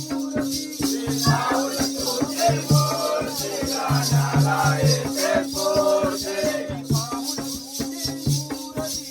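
Jakhadi folk music: a male lead voice singing over a repeating low drum beat and dense, fast metallic jingling, with a steady held note underneath.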